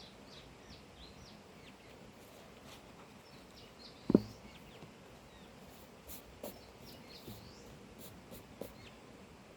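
Small birds chirping in short, high, repeated calls over a quiet outdoor background, with a single loud low thump about four seconds in and a few fainter knocks later.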